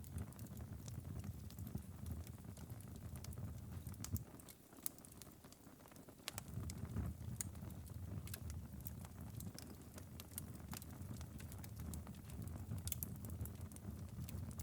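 Wood-burning fireplace ember bed crackling: scattered sharp ticks and pops over a low steady rumble, which drops away briefly about four seconds in and returns about two seconds later.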